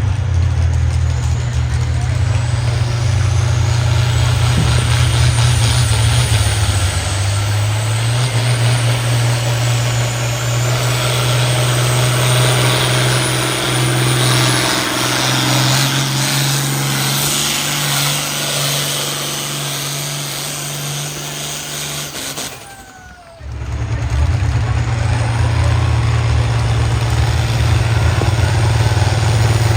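Pulling tractor's engine running hard under load as it drags the sled, with a high whine that climbs over the first several seconds. The sound cuts out abruptly for about a second about three-quarters of the way through, then resumes.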